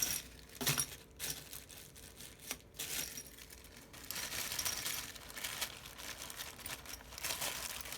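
Hands rummaging through small tools and packaging while searching for a plastic spudger: a few light clicks and clinks, then several seconds of crinkly rustling.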